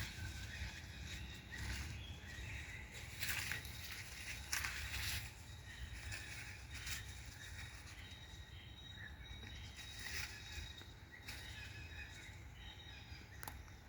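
Outdoor nature ambience: a low wind rumble on the microphone with scattered short rustles and clicks. A faint steady high tone comes in about eight seconds in.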